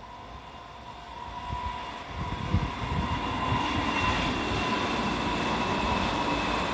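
Kintetsu electric train approaching, its running noise growing steadily louder from about two seconds in, with a faint steady whine. Wind buffets the microphone in low rumbling gusts.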